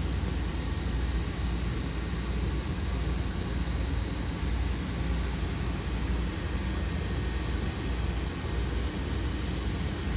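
Cessna Grand Caravan floatplane's turboprop engine running steadily: an even, unbroken drone heavy in the low end.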